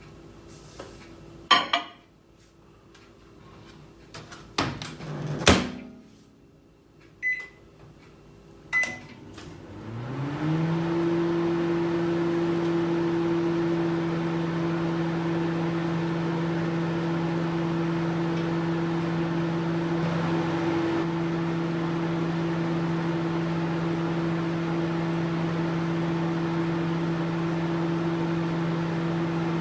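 Microwave oven: a few sharp clunks of its door, two short keypad beeps, then about ten seconds in it starts up, its hum rising briefly in pitch and settling into a steady running hum.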